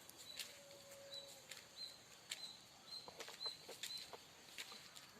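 Faint birds chirping: short, high notes repeating about every half second, with scattered light clicks.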